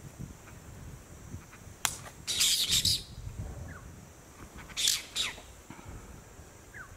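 Harsh bird squawking in two loud bursts, about two and five seconds in, with a sharp click just before the first and a few faint short chirps.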